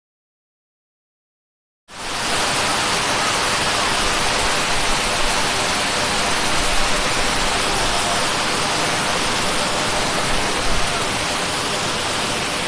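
Steady rush of water pouring over an overflowing dam. It comes in abruptly after about two seconds of silence.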